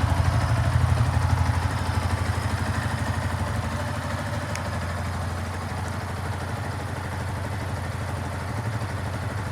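Yamaha YZF-R15's single-cylinder four-stroke engine idling, somewhat louder for the first three seconds or so, then running steadily.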